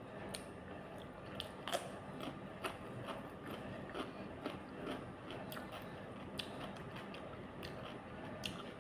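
A person chewing and biting food close to the microphone, with irregular crisp clicks and crunches from the mouth.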